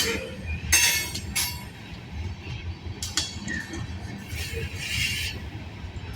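Freight train rolling past: a steady low rumble of wheels on rail, broken by sharp metallic clanks and bangs from the cars, with a brief stretch of grinding wheel noise about two-thirds of the way through.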